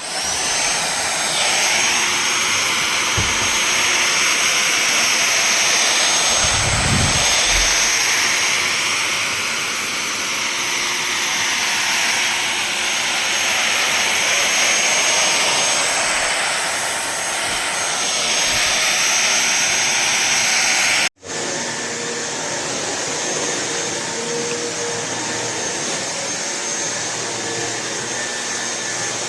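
Fieety cordless stick vacuum cleaner starting up and running with a steady high-pitched whine over a loud rush of air. It cuts out for an instant about 21 seconds in, then runs on a little quieter.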